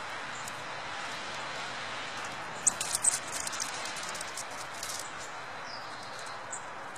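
Short, very high thin chirps and clicks of small songbirds, clustered about three seconds in and scattered until about six seconds in, over a steady background hiss.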